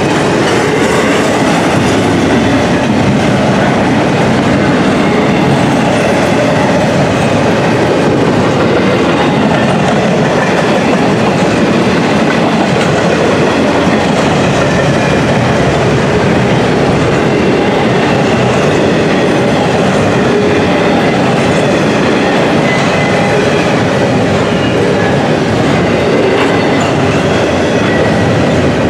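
Double-stack intermodal container cars rolling past close by: a steady, loud rolling noise of steel wheels running on the rails.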